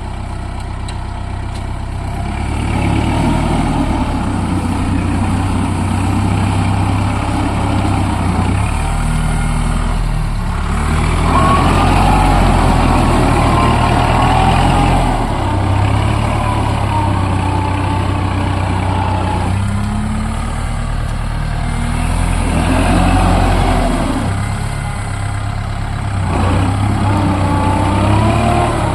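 Kubota MU4501 tractor's diesel engine running hard under load, its pitch and loudness rising and falling as it strains to pull a loaded trolley stuck in mud.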